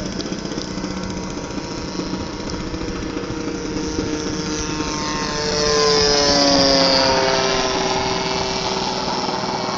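DLE 20cc single-cylinder two-stroke petrol engine of a radio-controlled Cessna 182 model plane in flight, buzzing steadily. Its sound grows louder about six seconds in and drops in pitch as the plane passes by.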